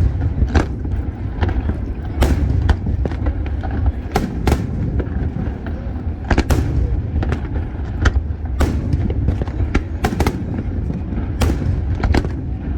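Fireworks display: sharp bangs from shells bursting at irregular intervals, about one or two a second, over a continuous low rumble.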